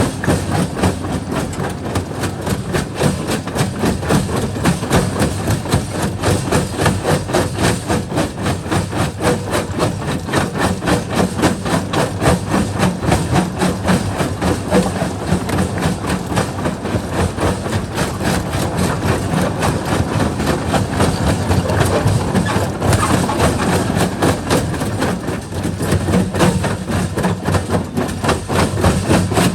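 Primary jaw crusher at work, rock cracking and knocking in the jaws in a rapid, steady run of knocks over the continuous low drone of the machinery.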